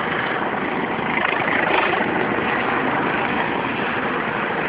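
Steady mechanical running noise from a Phalanx CIWS gun mount as its drive works to train and point it during a demonstration.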